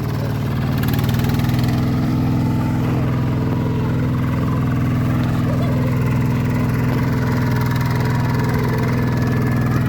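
Kubota tractor's diesel engine running steadily at an even speed.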